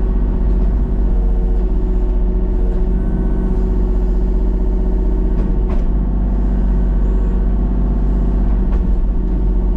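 Excavator's diesel engine running steadily under load, heard from inside the cab, with a couple of faint knocks about halfway through and near the end.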